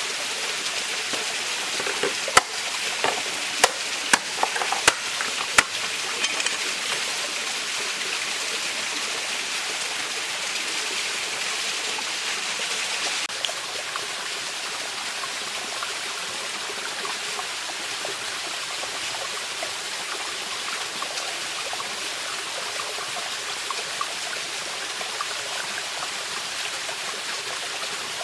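A mountain stream running steadily over rocks. A handful of sharp knocks or cracks come a few seconds in.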